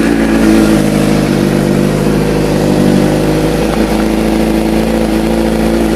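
2006 Suzuki GSX-R600's inline-four idling steadily through a Two Brothers Black Series full exhaust, just after a cold start.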